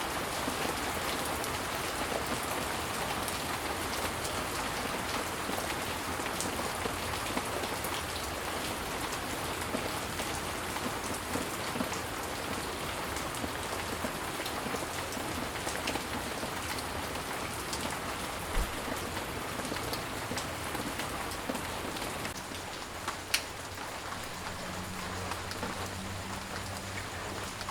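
Steady rain falling, with scattered sharper drop hits; it eases a little about 22 seconds in. A faint low hum joins near the end.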